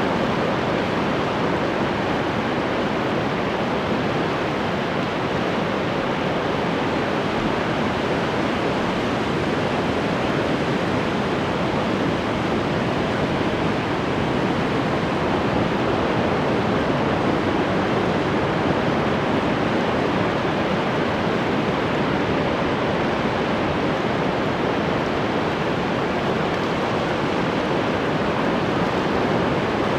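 Ocean surf: a steady, even rush of breaking waves, with no separate swells or breaks standing out.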